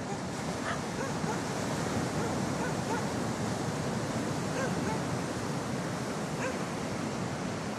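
Ocean surf washing steadily on a beach, with a few short, faint dog barks from far off scattered through it.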